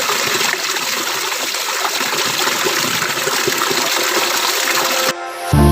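Waterfall rushing as a steady, dense noise that cuts off suddenly about five seconds in. Music starts just before the end.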